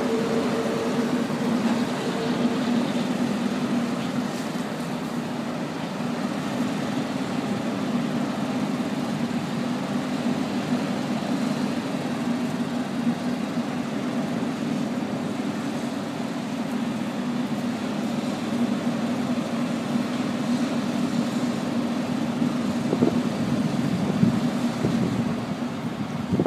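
Steady motor-vehicle engine and road noise with an even low hum, and a few short knocks near the end.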